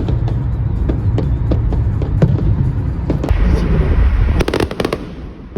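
New Year's fireworks going off: repeated sharp pops and bangs over a continuous low rumble, with a quick run of crackling reports about four and a half seconds in.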